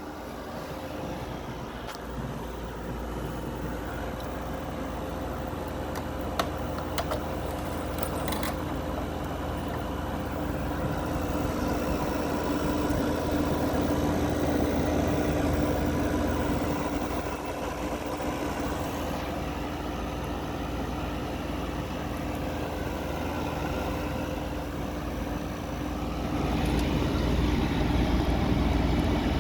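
Midea 5,000 BTU window air conditioner running: a steady hum under an even rush of fan air that swells and eases, with a few faint clicks about six to eight seconds in.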